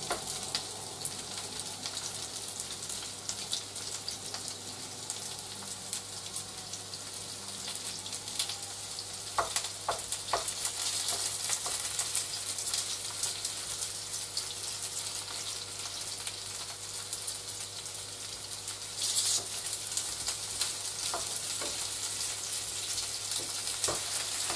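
Schupfnudeln (potato noodles) sizzling steadily as they fry in hot oil in a nonstick frying pan. A wooden spatula knocks against the pan a few times as the noodles are pushed apart, and the sizzle flares briefly near the end.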